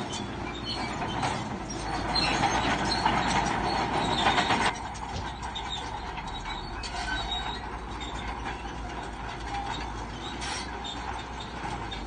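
Crawler bulldozer working, its steel tracks clanking and squealing over the engine noise. The louder, harsher squealing stops suddenly a little under five seconds in, leaving steadier machine noise.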